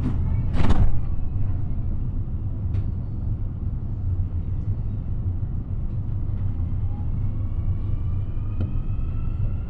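Interior of a CAF AS-14 metro car: a steady low rumble, broken about half a second in by a brief loud burst of noise, then from about seven seconds in the rising whine of the traction motors as the train starts to accelerate out of the station.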